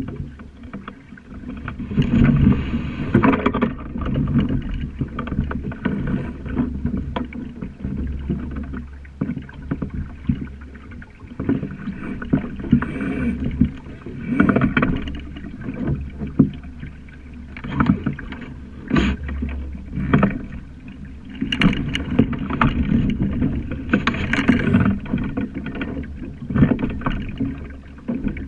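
Sailing dinghy underway: water rushing and slapping along the hull in uneven surges, with scattered sharp knocks and clatters from the boat.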